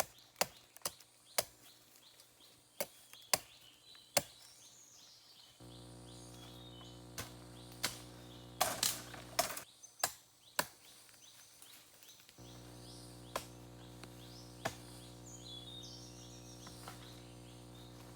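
Irregular sharp knocks and snaps with birds chirping. A rustling burst comes about halfway through. A steady low hum starts about a third of the way in, drops out briefly and then returns.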